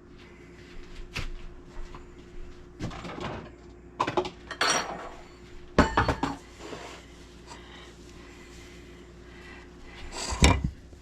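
Kitchenware being handled on a counter: scattered knocks and clatters of pans and dishes being moved and set down, the loudest about six seconds in and another near the end.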